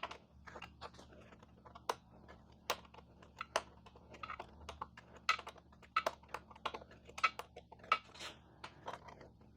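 Faint, irregular clicking and tapping of a hand screwdriver and small bolts against the plastic tail section as the last tail bolts are worked out.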